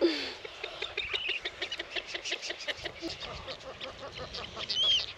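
A colony of nesting birds calling: a dense chatter of short, sharp calls, several a second, with one louder, drawn-out call near the end.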